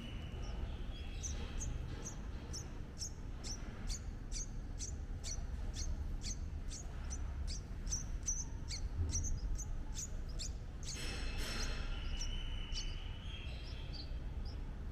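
A small bird calls a quick run of short, high chirps, about two or three a second, for most of the stretch. Near the end comes a brief rustling burst and a held high note, over a steady low background rumble.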